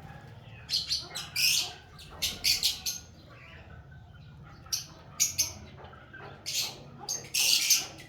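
Birds chirping and squawking in short, high-pitched bursts that come in about five clusters, with quiet gaps between them.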